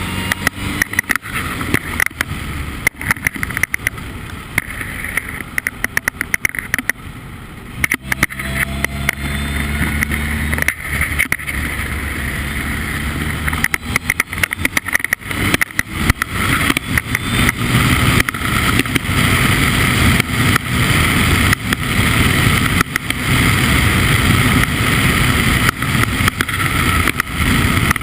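Formula Ford race car engine running at a steady pitch for the first several seconds, through dense crackling and rushing noise. From about halfway on, the sound grows louder and the rushing noise fuller.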